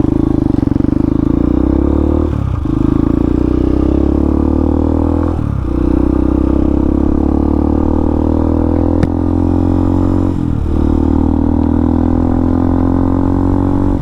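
Hawk 250 dual-sport motorcycle's single-cylinder engine running under way, its pitch climbing slowly and breaking off briefly three times as the rider shifts up. A single sharp click about nine seconds in.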